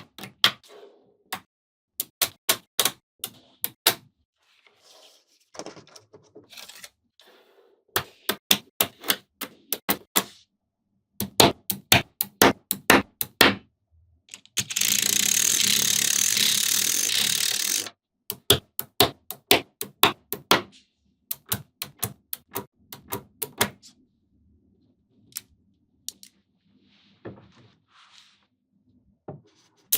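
Small magnetic balls clicking as they snap together, in quick runs of sharp clicks. About halfway through comes a steady hiss lasting about three seconds.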